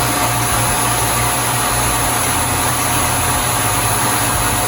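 Yeedi Vac 2 Pro's self-emptying station running its suction motor to empty the docked robot's dustbin: a loud, steady rush of air with a thin, steady whine.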